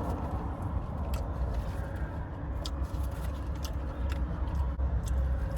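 Steady low rumble of a motor vehicle, with a few faint clicks about a second, two and a half and three and a half seconds in.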